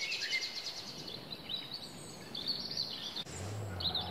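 Birds singing at dusk: short chirping phrases repeated. About three seconds in, the sound cuts and a car engine's low hum starts, rising slowly in pitch as it revs.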